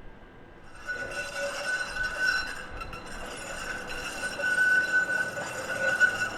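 Steel tram wheels squealing as a tram rounds a tight curve: a high, ringing squeal of several steady pitches that starts about a second in and swells and fades.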